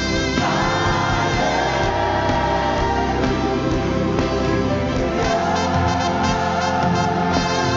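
Live gospel worship music: a band playing slow, long held notes, with a note sliding up into place about half a second in.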